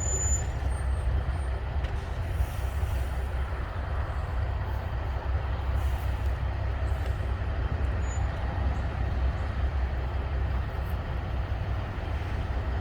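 Steady low rumble of an idling engine, with no change in pitch or level.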